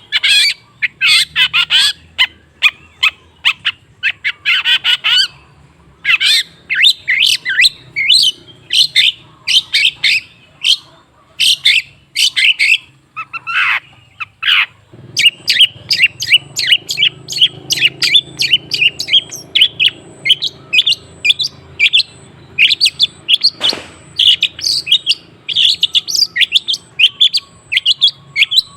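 Long-tailed shrike (cendet) singing: a rapid, near-continuous string of short, sharp chattering notes, broken by brief pauses. A low steady hum comes in about halfway through.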